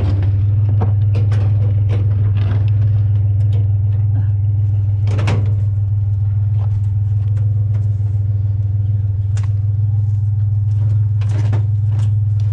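A vehicle engine idling with a steady low hum. Scattered light knocks sound over it, with a louder knock about five seconds in.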